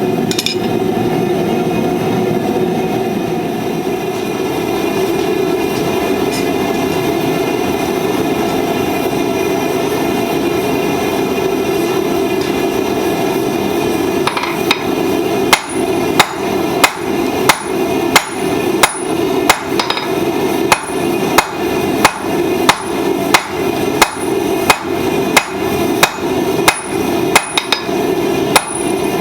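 Blacksmith's hand hammer forging hot steel on an anvil: after a single blow near the start, a steady run of strikes begins about halfway through, about two blows a second. A steady roar continues underneath throughout.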